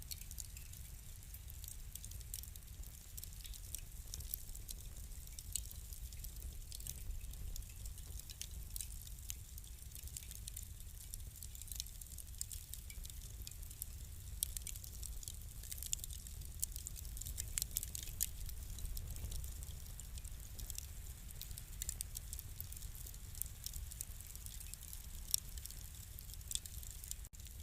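Fire crackling: scattered sharp pops and snaps over a low, steady rumble.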